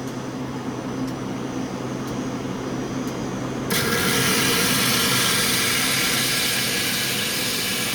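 Soda fountain dispenser: a low steady hum, then about four seconds in a loud hiss of soda pouring into a cup starts suddenly and keeps going.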